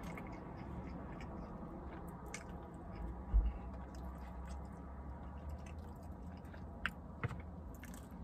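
A person eating: chewing and small mouth sounds, with a dull low thump about three seconds in and two sharp clicks near the end.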